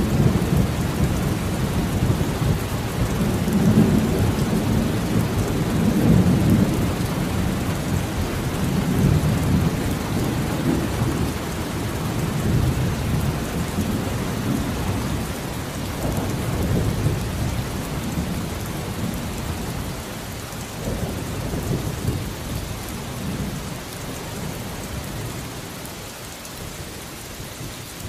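Thunderstorm: steady rain with a long rolling rumble of thunder that swells several times and slowly dies away toward the end, leaving the rain alone.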